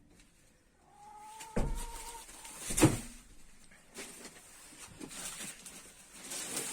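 Chicken giving a drawn-out call of about a second, with two knocks, the louder one nearly three seconds in, and lighter scattered clicks.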